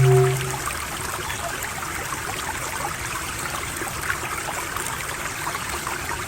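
Steady trickling of running water, like a small stream. A low humming drone fades out within the first half second.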